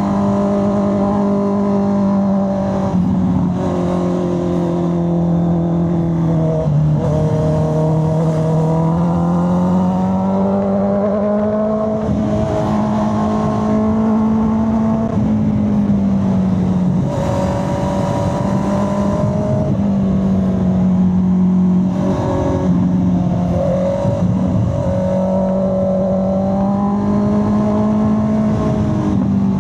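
Honda CB650R's 649 cc inline-four engine running under way through curves, its steady note sliding down and back up several times as the throttle is eased off and rolled on.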